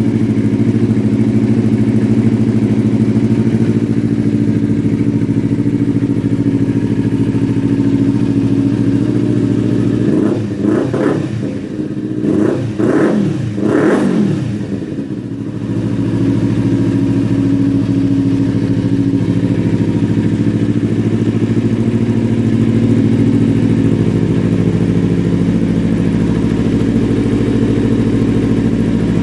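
Kawasaki Ninja 300's parallel-twin engine idling steadily through an aftermarket carbon muffler with its baffle removed, opened up in several quick revs about ten seconds in before settling back to idle.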